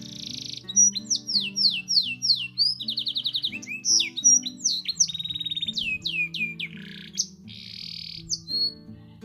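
Domestic canary singing a long, varied song. It runs through phrases of repeated downward-sweeping whistled notes, rapid trills and short buzzy rattles, with soft background music underneath.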